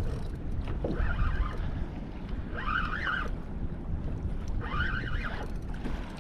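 Wind buffeting the microphone on a kayak, with short whirring bursts about every two seconds as a fishing reel is cranked to bring in a hooked blue runner.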